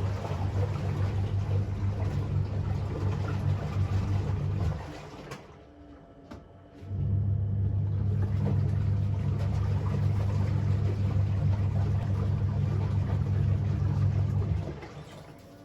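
A motor running with a steady hum. It stops about five seconds in, starts again about two seconds later, and stops shortly before the end.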